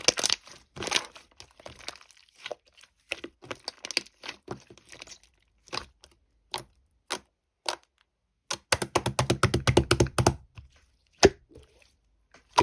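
Sharp clicks and knocks at irregular intervals, then a fast run of about a dozen clicks a second for nearly two seconds, starting about nine seconds in.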